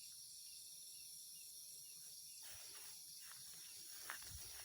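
Faint, steady, high-pitched chirring of crickets or other insects, with a couple of small ticks near the end.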